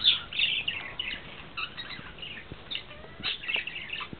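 Pet birds chirping in many short, quick calls, with a few faint clicks between them.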